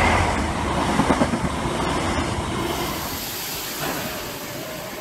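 Yellow Network Rail test train passing close by, the steady rush of its coaches and wheels, until an abrupt change about two and a half seconds in to a Merseyrail Class 507 electric train running into an underground station platform, with faint wheel squeal building near the end.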